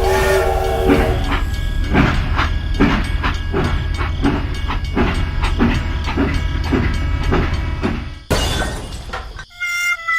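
Train chugging in an even rhythm of roughly two and a half beats a second, ending a little after eight seconds. A held melody of music starts near the end.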